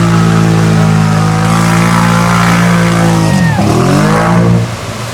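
ATV engine held at high revs as it churns through a mud-bog hole. A little over three seconds in the throttle drops sharply, then the revs come back up briefly and fall off near the end.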